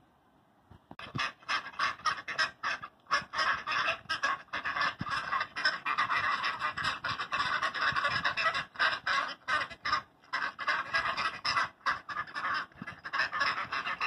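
Ducks quacking rapidly and without pause, starting about a second in: a duck-call sound effect standing in for the duck's lullaby.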